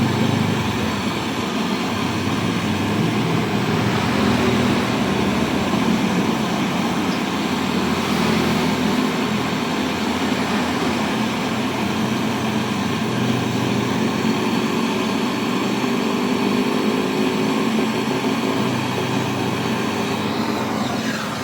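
A motor running steadily with a low hum under a wide band of noise.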